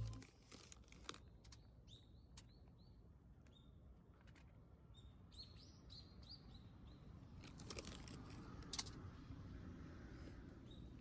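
Quiet, with a small bird chirping faintly in runs of short calls through the first half. A few soft clicks and rustles come in between, the sharpest near the end.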